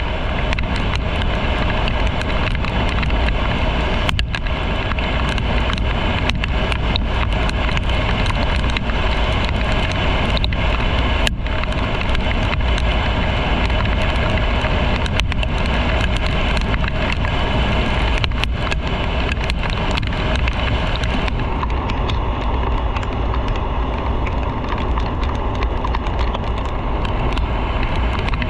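Steady rush of wind and road noise from a motorcycle in motion, with a deep rumble underneath. About three-quarters of the way through, the higher hiss drops away.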